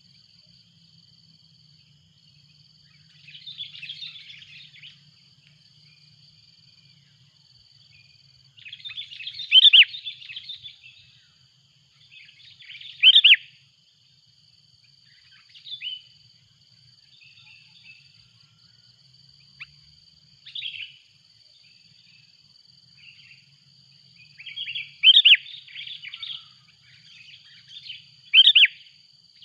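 Sooty-headed bulbuls calling in bursts of chirps, with loud sharp call notes four times, over a steady high-pitched whine in the background.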